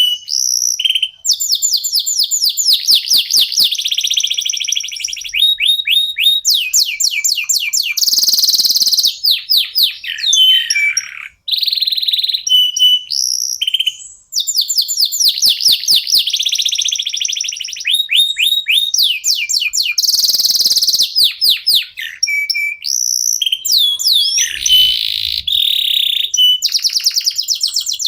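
Domestic canaries singing continuously: fast rolling trills of rapidly repeated notes, short whistled phrases and buzzy passages, with barely a pause.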